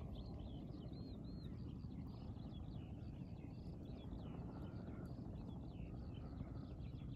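Several songbirds chirping and singing continuously, a steady stream of short high calls, over a low steady background hum.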